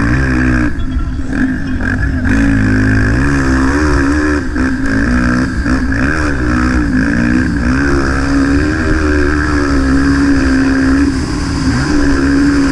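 Motocross bike engine, from the 230 cc class, revving hard and dropping back again and again: the pitch climbs and falls every second or so as the rider opens and closes the throttle and shifts gears around the track. A rush of noise runs under it.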